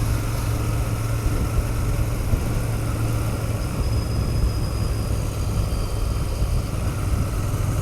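Royal Enfield Continental GT650's 648 cc parallel-twin engine running steadily while the motorcycle is ridden, with an even low hum and no change in revs.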